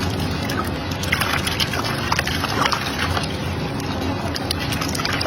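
Water sloshing and splashing over a steady low hum.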